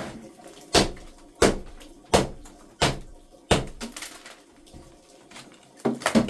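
A series of sharp knocks: five evenly spaced, about 0.7 seconds apart, then a few fainter ones near the end.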